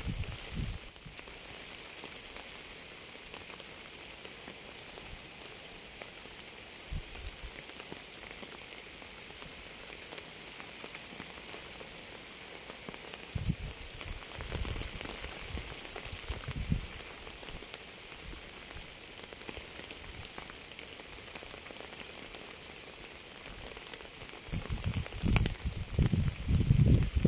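Steady rain falling on a surface, an even patter throughout. Short low rumbles break in now and then and grow louder near the end.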